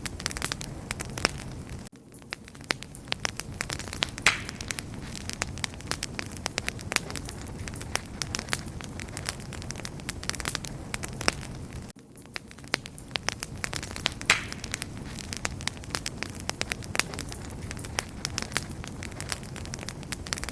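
Wood fire crackling, with frequent sharp pops and snaps over a steady low rush of flames. The level dips briefly twice, about ten seconds apart.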